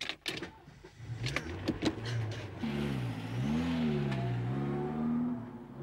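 Car engine pulling away and accelerating, its note rising and falling. A few sharp clicks come first.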